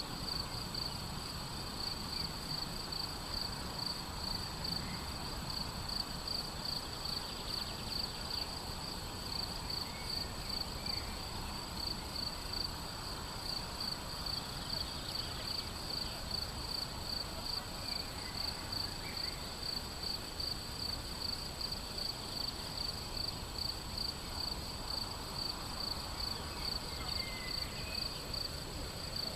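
A cricket chirping in a steady, even rhythm, with a few faint bird chirps now and then over low outdoor background noise.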